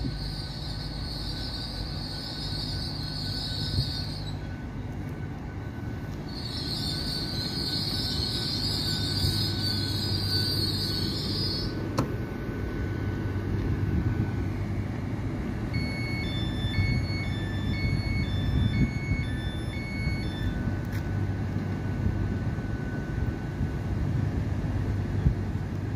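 GWR Class 800 bi-mode train, unit 800019, braking into the platform with a high-pitched brake squeal that drops out briefly and then returns before stopping about twelve seconds in. A steady low hum from the train runs throughout, and a few seconds after it stops, six short door warning beeps sound in a row.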